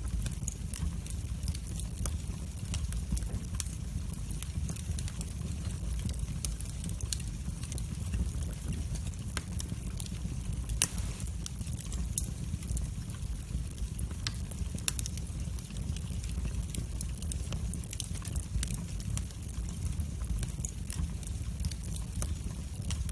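Wood fire crackling in a fireplace: a steady low rumble of flame with frequent small pops and snaps, and one louder pop about eleven seconds in.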